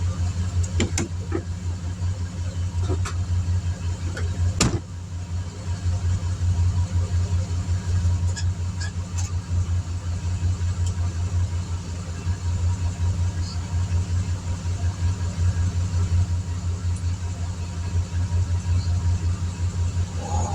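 An engine running steadily with a low, rapidly pulsing hum, with a few light clicks and one sharp knock about four and a half seconds in.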